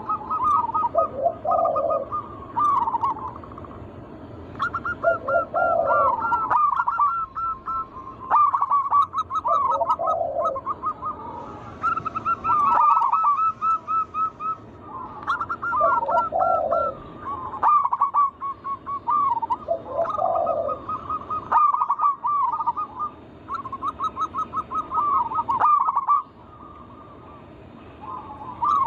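Zebra doves (perkutut) singing, the rapid warbling coo song repeated phrase after phrase, each run of quick high notes joined by a lower, fuller coo, with short pauses between phrases.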